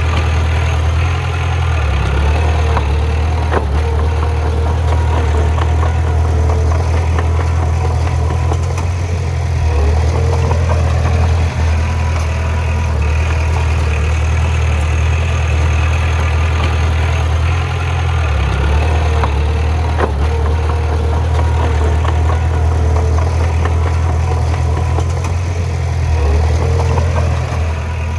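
Heavy diesel engine of a bulldozer running steadily with a deep, even hum, with a few short metallic clanks.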